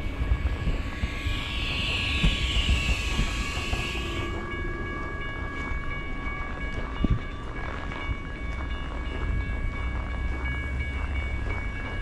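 Amtrak diesel passenger locomotives at a station: a low engine rumble under a steady high whine. For the first four seconds a falling hiss sits over it and stops abruptly.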